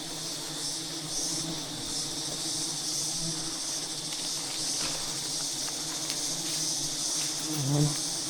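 Giant honey bees buzzing steadily as a swarm, a low hum under a high, gently pulsing hiss. A short human voice sound comes near the end.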